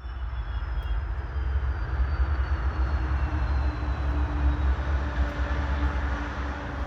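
Norfolk Southern intermodal freight train passing, a steady heavy low rumble with a faint high whine that slowly falls in pitch.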